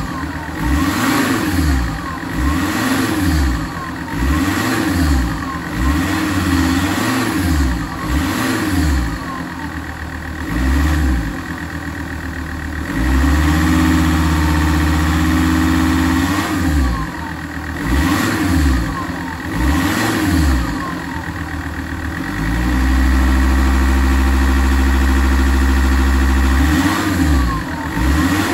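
Alfa Romeo 166 JTDm 2.4 five-cylinder common-rail diesel, stationary, revved in quick blips about once a second, rising and falling. Twice it is held at high revs for about three to four seconds before dropping back. This is a warm-up and service rev test.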